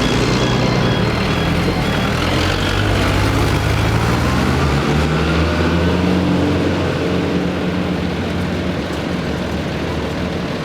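Vehicle engines running steadily at a vintage tractor and vehicle run, with one engine note rising slowly in pitch in the first half.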